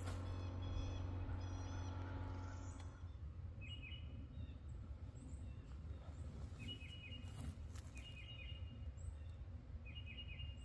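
A songbird calls four times: each call is a short cluster of quick, falling notes. Under it runs a low steady rumble, and for the first three seconds a steady hum with several tones, which then stops.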